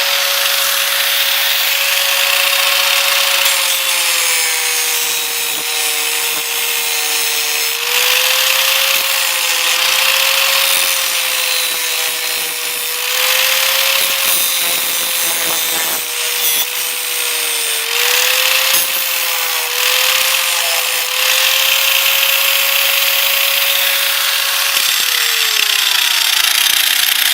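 High-speed electric power tool cutting into the steel canister of an old oil filter. Its whine dips and recovers as it bites, over a harsh grinding hiss, and near the end it is switched off and spins down.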